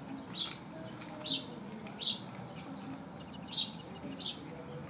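A small bird chirping repeatedly: about six short, high chirps, each falling in pitch, at irregular intervals.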